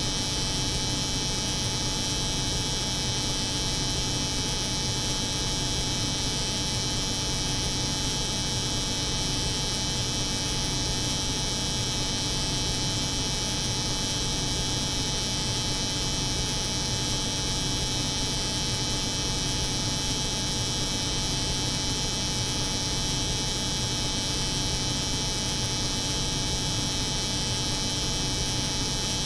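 Steady, unchanging layered drone of a cold room's refrigeration hum mixed with the buzz of an electric hair clipper running continuously.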